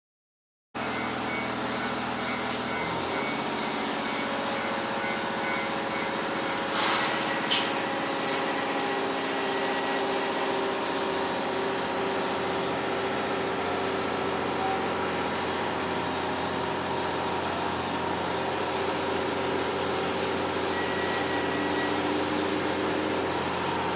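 Cabin sound of a JR Hokkaido H100 (DECMO) diesel-electric railcar under way: a steady running hum with several held tones. Two sharp knocks come about seven seconds in. It starts after a moment of dead silence.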